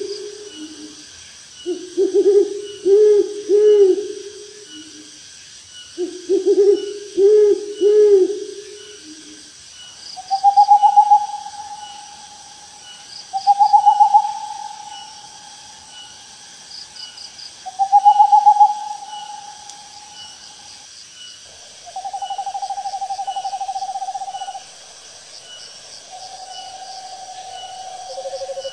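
Owl hooting: groups of three or four low hoots in quick succession, then longer, higher calls that rise briefly and hold a steady note.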